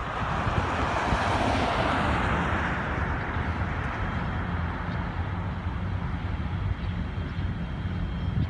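Freight train rolling past on the rails: a steady rumble of the cars with a hiss that is loudest in the first couple of seconds, then settles as the train draws away.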